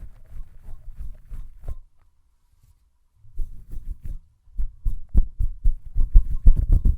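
Fast hand sounds close to a microphone: quick, soft, muffled strokes of hands rubbing and moving together. They pause for about a second near the middle, then come back and grow louder and denser toward the end.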